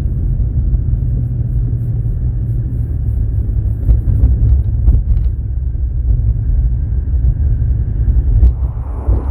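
Wind buffeting the microphone: a loud, uneven low rumble with a few light knocks in the middle. Near the end a broader rushing sound of an approaching airliner begins to swell.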